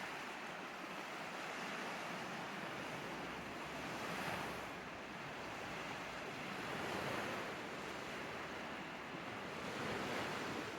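Lake waves washing onto a Lake Huron beach, a steady wash that swells and fades about every three seconds.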